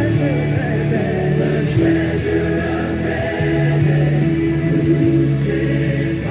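Worship music: a choir singing long held chords that shift every second or two.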